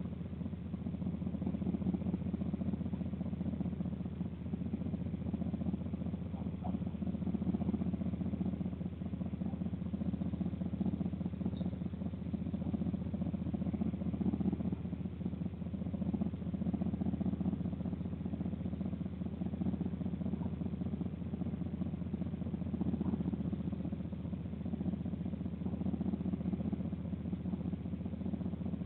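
A steady low rumble, even and unbroken, with a faint hum in it.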